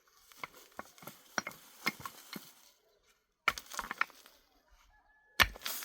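Irregular sharp clicks and clinks of hard objects striking one another, with a quick flurry about three and a half seconds in and a louder knock near the end.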